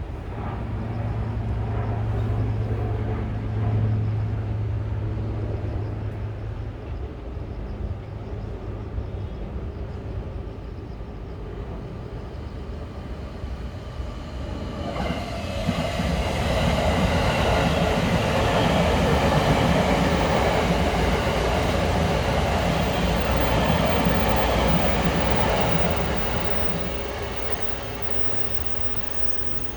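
E259 series Narita Express electric train running past on a curve. A low hum in the first seconds gives way, about halfway in, to loud wheel-and-rail rumble that peaks and then fades near the end.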